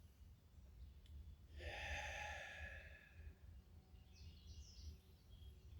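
A person's long audible exhale, a sigh-like out-breath lasting about a second and a half, starting a little over a second in; otherwise the background is quiet.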